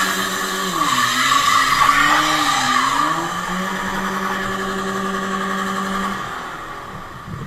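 A car engine running steadily over road noise; its pitch drops and then climbs back between about one and three seconds in.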